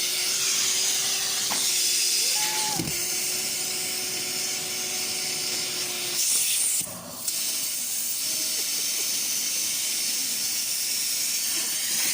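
Vacuum cleaner running with a steady rushing hiss of air and a faint motor hum. There is a knock about three seconds in and a brief dip in the sound about seven seconds in.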